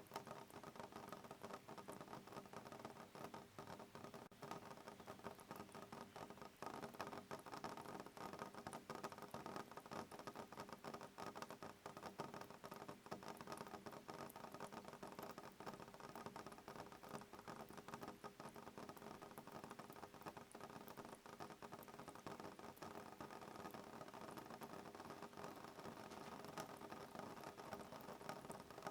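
Soft rain pattering steadily on a window pane, faint, made of many small irregular drop ticks, with no thunder.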